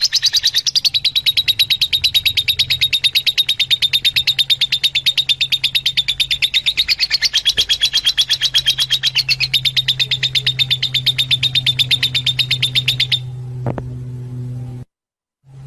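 Fischer's lovebird chattering: a fast, even run of shrill chirps, about seven or eight a second, that stops suddenly about 13 seconds in. A steady low hum runs under it.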